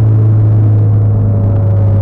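Mitsubishi Lancer Evolution X's turbocharged 2.0-litre four-cylinder engine heard from inside the cabin while driving, a loud, steady low drone. Its pitch drops slightly near the end.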